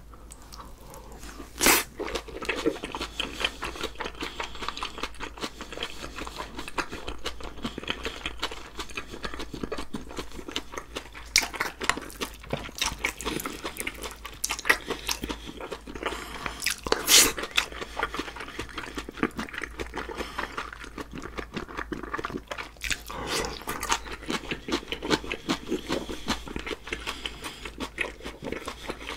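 Close-miked eating sounds: a man chewing mouthfuls of sea squirt bibimbap, with a dense run of wet mouth clicks. A wooden spoon scoops against a glass bowl, and two louder sharp knocks stand out, about two seconds in and just past halfway.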